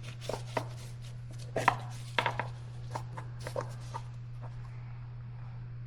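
Irregular light clicks and knocks of hand tools and parts being handled during motorcycle sprocket work, thickest in the first four seconds and sparse after. A steady low hum runs underneath.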